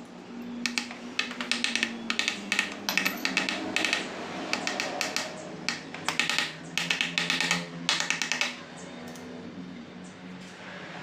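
Rapid clicking in short bursts, repeated many times over about eight seconds, from hand-tool work on a motorcycle engine.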